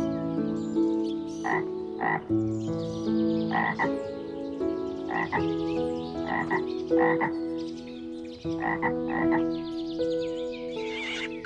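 Frog croaking: repeated short croaks, often two close together, over soft background music with long held notes.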